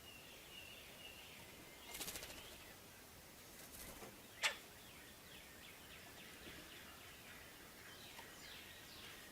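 Brief flutter of wingbeats about two seconds in, then a single sharp knock about halfway through: the 'chomp' a red-bellied woodpecker makes when landing. Small birds chirp faintly in quick series of short falling notes.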